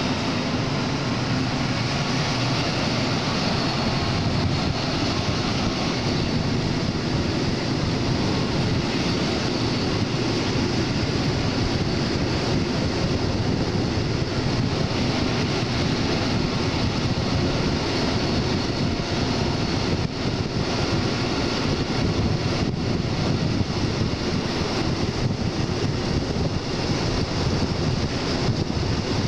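Passenger train running, heard from an open coach window: a steady rush of wind on the microphone over the rumble of the wheels on the track.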